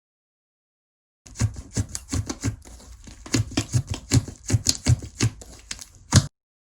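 Slime being squished and pressed in the hands, making a quick string of sticky clicks and pops, several a second. The pops start about a second in and stop abruptly near the end.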